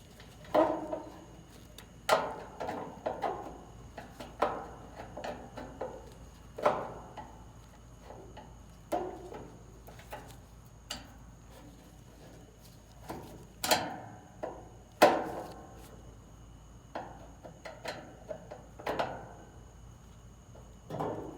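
Irregular knocks, clicks and clatter of a hand screwdriver and small metal parts against a dryer's sheet-metal cabinet as the door switch's mounting screws are taken out.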